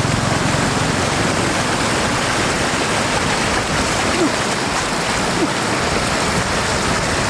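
Floodwater rushing steadily over the road, a loud unbroken rush of water.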